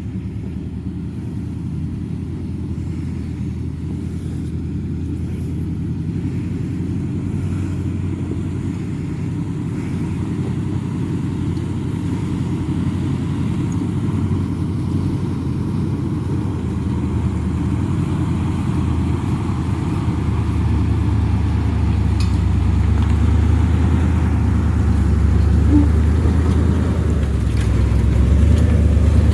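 Truck driving: a steady low engine drone with road rumble that slowly grows louder, heaviest in the last third.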